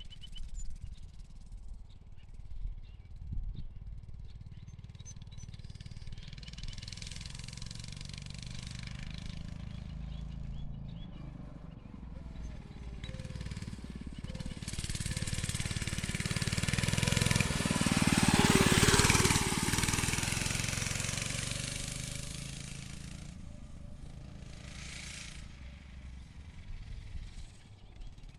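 Motovox pit bike's small pull-start engine running as the bike rides around. It grows louder as the bike passes close about eighteen seconds in, then fades away again.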